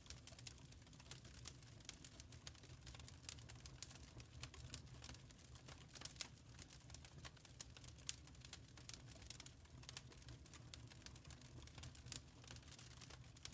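Faint crackling of a wood fire: many small irregular pops and snaps over a low steady rumble.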